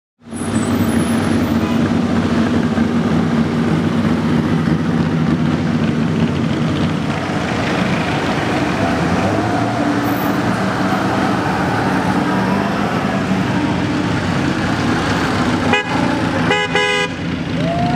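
Vintage race cars, Bugattis among them, driving past in a line with their engines running. A car horn toots briefly near the end.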